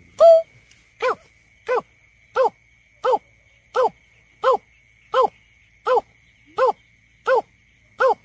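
Greater painted-snipe giving its hollow, hooting calls: one longer note at the start, then a steady series of short hoots about one and a half a second. A thin steady high tone runs behind the calls.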